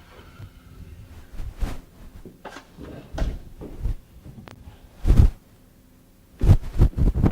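A series of irregular knocks and clunks, a few scattered ones and then a quick cluster near the end.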